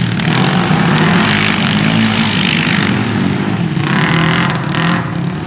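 Engine of a small motor vehicle running loudly close by, its pitch wavering up and down as it revs.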